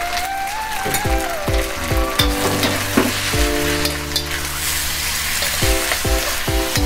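Spaghetti with shrimp and tomato sauce sizzling in a hot wok as a spatula stirs and tosses it, over upbeat electronic background music with a steady beat.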